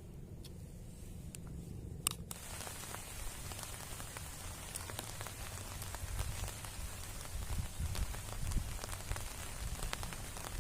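Rain falling, with scattered drop taps at first; about two seconds in it abruptly becomes a dense steady hiss full of drop taps. A low rumble runs underneath.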